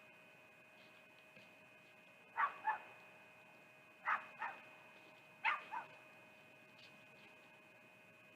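An animal barking in short double barks, three pairs about a second and a half apart, starting a couple of seconds in. A faint steady whine runs underneath.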